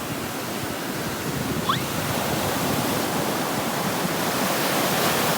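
Ocean surf washing in on the shore: a steady hiss of breaking waves that grows slowly louder toward the end.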